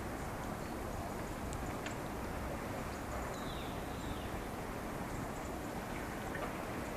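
A steady wash of outdoor noise, with faint high bird chirps scattered through it and one short whistle falling in pitch a little over three seconds in.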